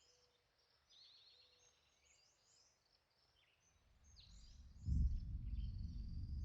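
Faint field recording of sparse, scattered high bird chirps with a short rapid trill about a second in; about four seconds in a low rumble comes in and grows louder.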